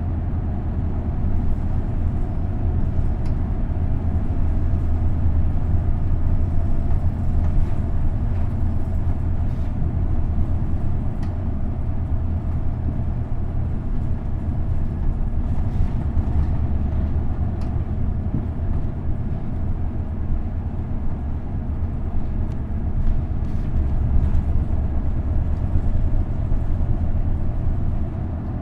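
Isuzu Erga city bus's V8 diesel engine running under way, heard from inside the passenger cabin: a steady low drone mixed with road and body noise, swelling slightly now and then, with a few faint rattles.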